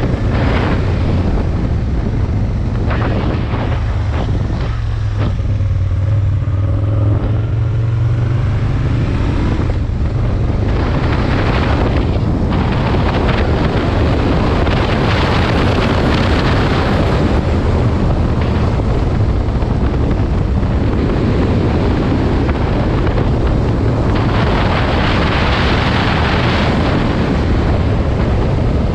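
Aprilia Tuono 1000's V-twin engine running on the move, a steady low drone whose pitch shifts a few seconds in. Heavy wind noise on the microphone swells around the middle and again near the end.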